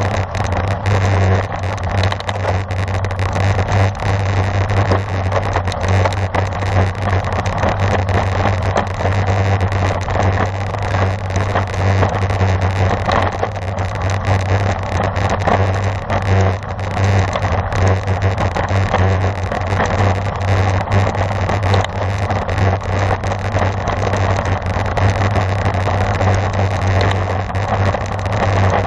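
Steady wind and road noise from riding a road bicycle at race speed, picked up by an onboard camera's microphone: a constant low rumble under a rough rushing hiss, with no break.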